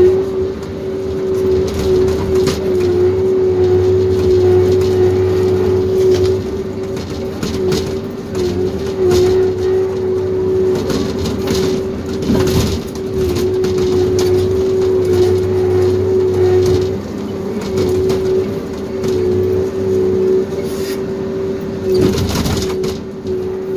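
Tracked logging machine running steadily at high revs, its diesel engine and hydraulics giving a constant whine over a low hum, with scattered short knocks and cracks.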